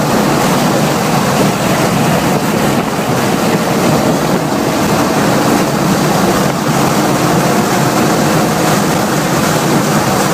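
A 1997 BMW M3's straight-six engine pulling hard under acceleration at about 90 to 105 mph, mostly buried under loud, steady wind and road noise.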